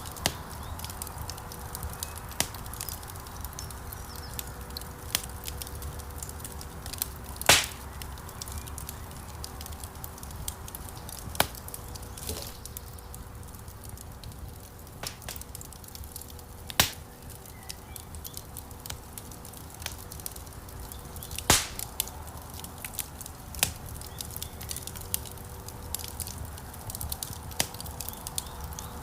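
Wood fire crackling in a fireplace: a steady run of small snaps over a low rumble of flame, with a few loud pops, the loudest about seven and a half and twenty-one seconds in.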